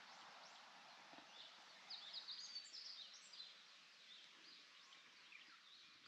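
Faint dawn birdsong: scattered short, high chirps and whistles, busiest about two seconds in, over a quiet outdoor hiss.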